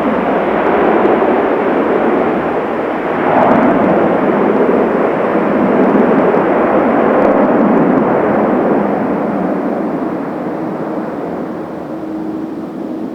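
Jet airliner landing: loud engine noise that builds, holds for several seconds and then fades away. A faint steady hum comes in near the end.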